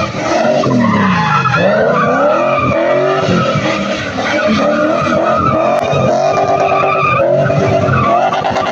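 Car engine revving hard, its pitch swooping up and down again and again, mixed with squealing tyres: a car drifting.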